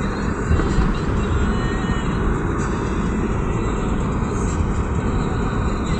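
A car driving along, with a steady rumble of road and engine noise.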